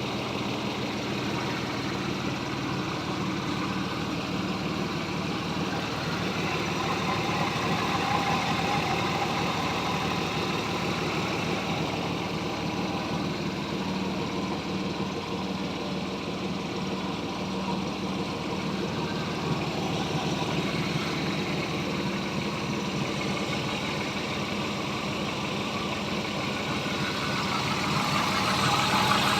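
Engine freshly swapped into a Jaguar XJ idling steadily, getting a little louder near the end.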